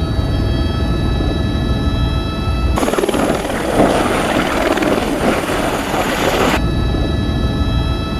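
Helicopter in flight heard from inside the cabin: a steady low rotor and engine rumble with a steady high whine. About three seconds in, the sound cuts abruptly to a harsh rushing hiss without the rumble, and it cuts back to the cabin drone about four seconds later.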